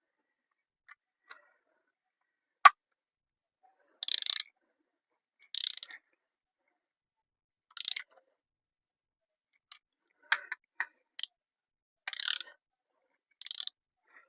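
Ratchet wrench clicking in short bursts of about half a second as bolts are tightened, with several sharp single clicks between; the loudest is a single click about three seconds in.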